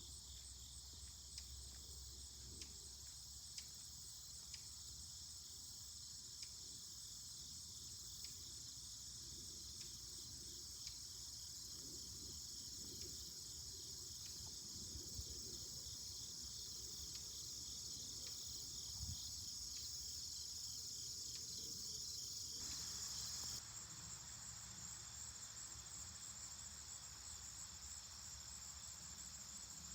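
Faint outdoor insect chorus: a steady, high-pitched drone with a few light clicks in the first half. The sound changes abruptly about 23 seconds in.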